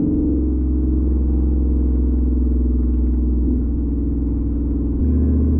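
Supercharged 5.0 V8 of a 2022 Ford F-150 with a custom exhaust (straight-through Magnaflow muffler), heard from inside the cab while cruising: a steady low drone and rumble, its tone shifting slightly about five seconds in.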